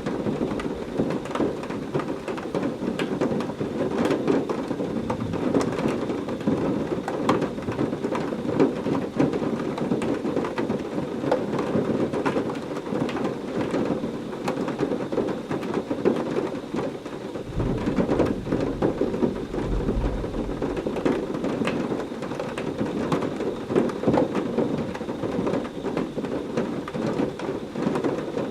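Heavy rain falling steadily, with many sharp drop hits through the hiss. A deep rumble of thunder rolls in a little past halfway and lasts a few seconds.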